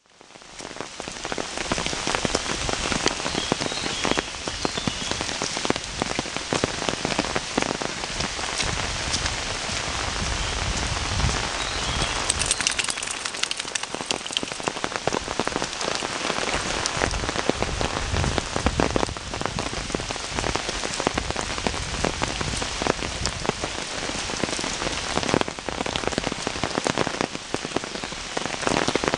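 Steady rain falling on wet paved ground, a dense, even patter of drops.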